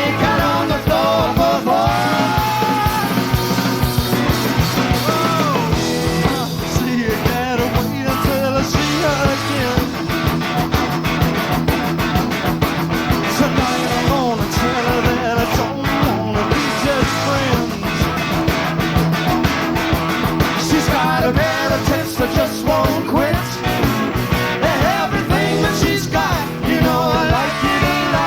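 Four-piece rock-and-roll band playing an instrumental passage live: electric guitars, bass and drums, with a lead line of bending notes over a steady driving beat.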